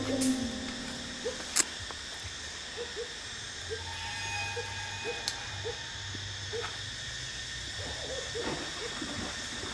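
A bird calling a long series of short, low hooting notes, about two a second. A single sharp click about a second and a half in stands out above them.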